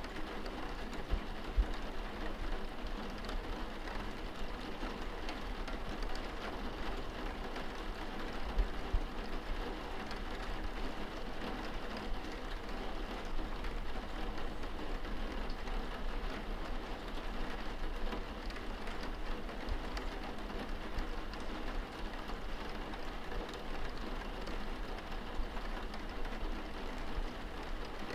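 Steady rain falling on a window, heard from indoors, with a low rumble underneath and a few soft knocks about a second and a half and nine seconds in.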